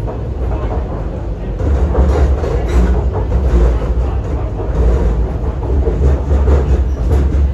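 MTR Kwun Tong Line C-train metro car running between stations, heard from inside the car: a steady low rumble of wheels on rail with a hissing running noise, growing louder about a second and a half in.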